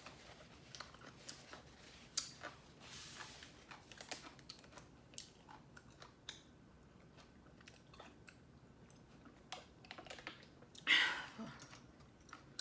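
Close-miked eating sounds: quiet chewing with scattered soft mouth clicks and light crunches. A louder burst of noise comes about eleven seconds in.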